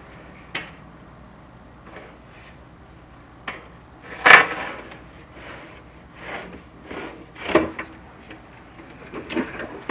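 Chimney inspection camera knocking and scraping against the flue tiles as it is lowered down the flue. Scattered knocks and short scrapes, the loudest a sharp knock about four seconds in.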